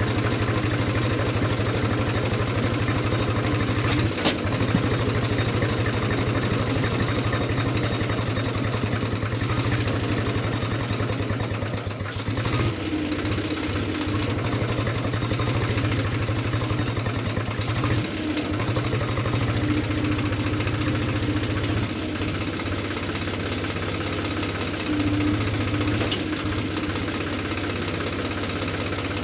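Tractor's diesel engine running steadily with an even low chug, its level dipping briefly a couple of times. A sharp click about four seconds in.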